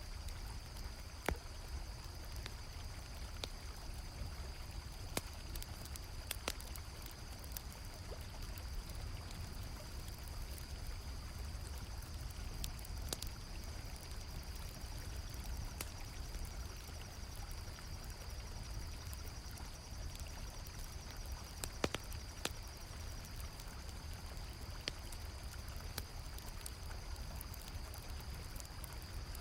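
River water flowing steadily, with a campfire crackling, its sharp pops coming at irregular moments. A constant high chorus of crickets sounds throughout.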